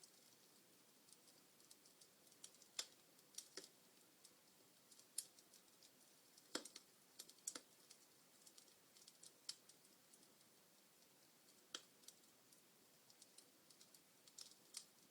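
Wood fire of burning logs crackling: irregular sharp snaps and pops, a few louder ones scattered among many small ticks, over a faint hiss.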